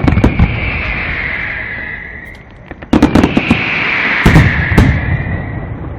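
Fireworks display: a burst of loud bangs right at the start, then a second, heavier volley of bangs from about three to five seconds in. Each volley is followed by a high rushing hiss that fades away.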